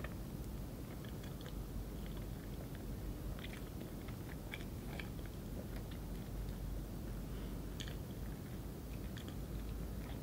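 Someone chewing soft cream roll cake: faint, irregular wet mouth clicks over a low steady hum.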